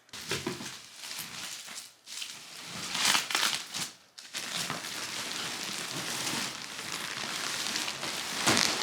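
Plastic bubble-wrap packaging being crinkled and squeezed, crackling continuously with sharp pops as the air bubbles burst.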